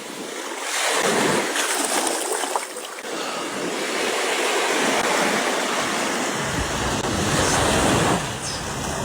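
Ocean surf washing in on a beach, swelling and easing. Wind rumbles on the microphone from about two-thirds of the way in.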